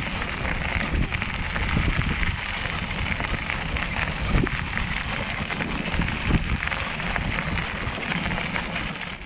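Wind buffeting the microphone with rumbling and rattling from a bicycle being ridden along the path, continuous with many small knocks.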